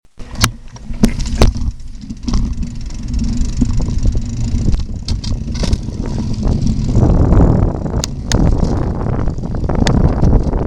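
Riding noise from a moving bicycle: a steady low rumble of wind on the microphone, with a few sharp clicks and rattles scattered through it.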